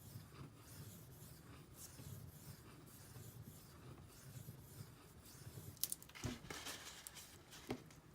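Faint rhythmic scraping as a Benchmade Griptilian's D2 steel blade is stroked back and forth across a Naniwa Pro 3000-grit whetstone. A few sharper clicks of the blade or stone being handled come near the end.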